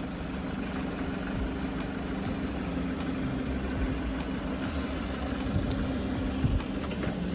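Car engine idling steadily, an even low hum with no change in revs.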